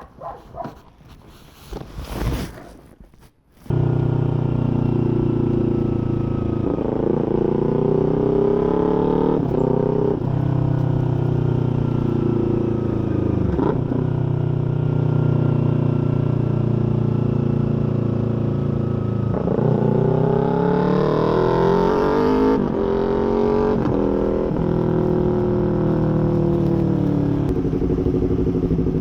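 Small parallel-twin sport motorcycle with a full exhaust system. About four seconds in, the engine comes in loud and runs on, its pitch climbing and dropping back several times as it is revved or ridden up through the revs.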